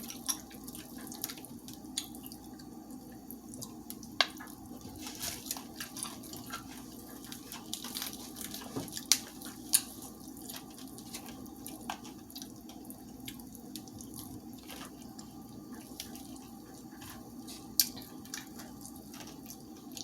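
Close-up eating of crispy fried chicken: scattered crunches, wet mouth clicks and smacks while chewing, with a few sharper crunches, over a steady low hum.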